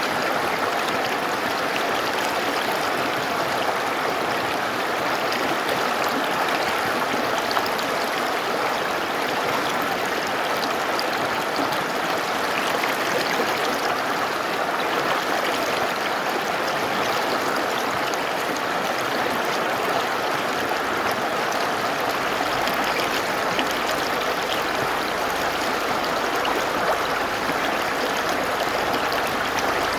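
Mountain river rushing over rocks, a steady, even water noise.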